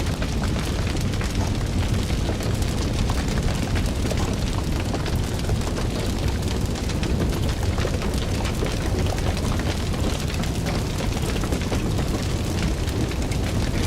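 Fire burning: a steady low rumble of flames with many quick crackles and pops throughout.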